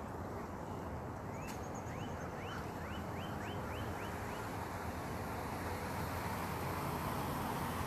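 A bird calling a quick series of about nine short rising whistled notes, a little faster toward the end, over a steady outdoor background noise.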